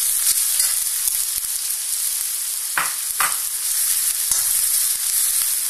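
Sliced onions sizzling in hot oil in an iron kadhai over high heat, stirred with a spatula: a steady high frying hiss, with two short scrapes of the spatula against the pan about three seconds in.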